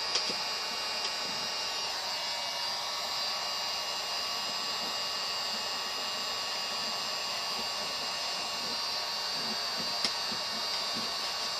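Steady whir of a small motor-driven blower with a thin high whine, unchanging throughout, and a faint tick just after the start and another about ten seconds in.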